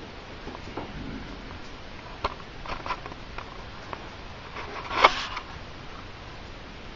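A dog sneezes once, a sharp burst about five seconds in. A few short faint clicks and snuffles come before it.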